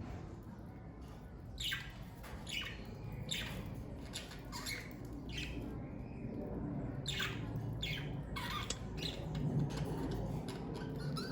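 Pet budgerigars chirping and squawking in short, irregular calls, over a low steady hum.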